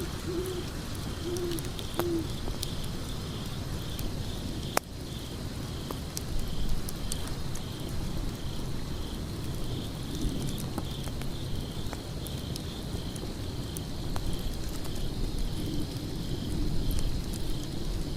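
Wood fire crackling, with scattered sharp pops over a low rumble. A bird hoots in short low notes a few times near the start and again later, while insects chirp in a steady pulse about one and a half times a second.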